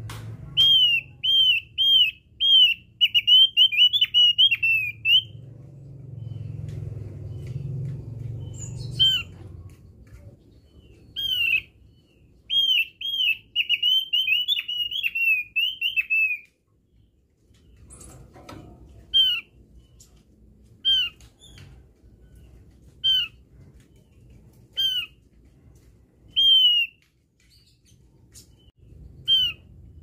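Javan grey-throated white-eye (opior jawa) calling. It gives two rapid runs of short, down-slurred high chirps in the first half, then single chirps every second or two. A low rumble sounds under the first part.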